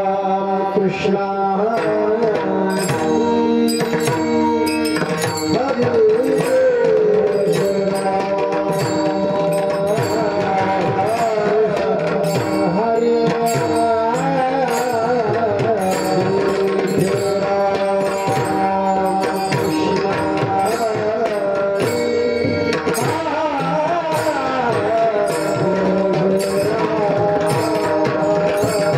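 Marathi devotional bhajan: mridang drumming keeps a steady beat with bright metallic ticks on the strokes, under steady held notes and a singing voice that winds up and down in pitch.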